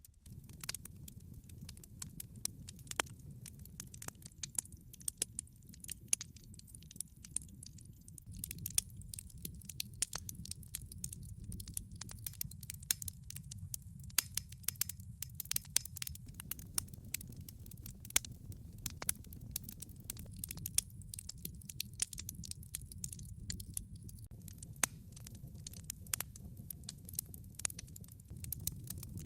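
Log fire crackling: many sharp, irregular pops and snaps of burning wood over a steady low rumble of the flames.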